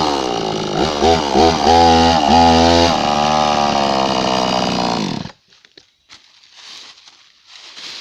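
Blue Max two-stroke chainsaw being blipped, its revs rising and falling several times before settling to a lower, steadier note. It is then shut off, cutting out sharply about five seconds in. The saw bogs, which the owner thinks probably needs a carburetor adjustment.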